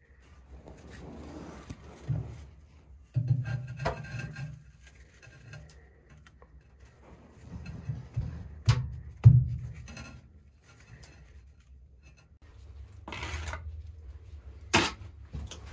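Irregular scraping and rubbing of hard objects being handled, with several sharp knocks; the loudest are just after 9 seconds and near the end.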